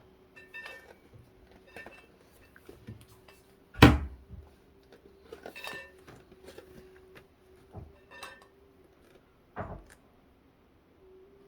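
Toy pots, pans and utensils clattering and clinking in a child's pretend cooking, with a loud knock about 4 s in and another near 10 s. A faint steady whistle-like tone runs underneath, a flute-like sound heard as coming from a computer.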